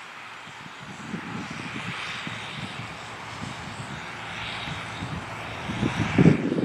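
John Deere 8300 tractor's diesel engine running steadily in the field, with irregular low rumbling that swells to its loudest near the end.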